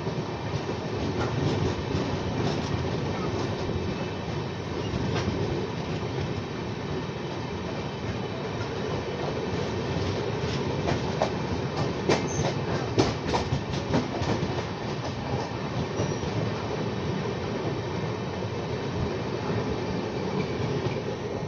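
Passenger train coaches running past close by on the next track, heard from the doorway of another moving train: a steady rumble of wheels on rail, with a quick run of sharp clacks over rail joints about halfway through.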